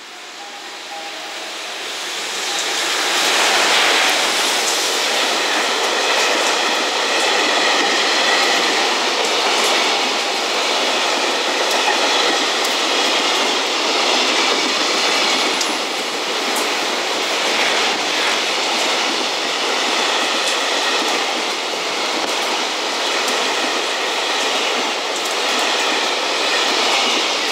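A JR Freight EF210 electric locomotive and its container wagons running past: loud, steady wheel-on-rail noise with the clickety-clack of wheels over the rail joints. The sound builds over the first three seconds as the locomotive arrives, then stays loud while the wagons roll by.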